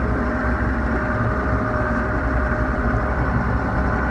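John Deere 7400's six-cylinder diesel engine running steadily while the tractor moves slowly in B range, second gear.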